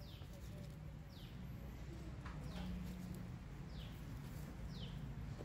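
A bird's short, high, falling chirp, repeated about once a second, over a low steady rumble.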